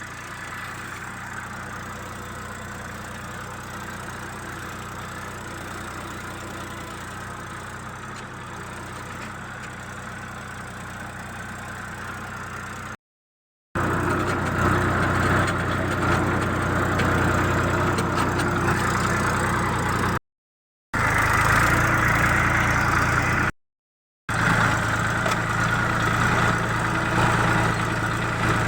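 Tractor engine running steadily, growing louder after about 14 seconds, with three brief silent breaks where the footage is cut.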